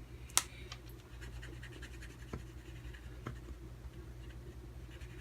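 Brush tip of a felt marker scratching lightly as it colours over a stamp, with a sharp click just under half a second in and a few small ticks after.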